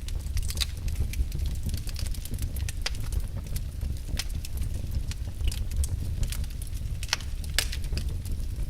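Wood logs burning in a fireplace: irregular sharp crackles and pops over a steady low rumble.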